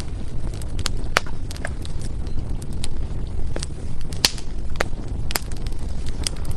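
Firewood burning in a fireplace: irregular sharp crackles and pops, a few louder snaps among them, over a steady low rumble of the flames.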